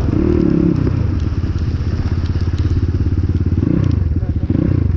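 Cross X 250 SE dirt bike's 250 cc engine running under way, with a fast, even pulsing of firing strokes. The engine note drops in the first second, as the throttle eases, and climbs again near four seconds.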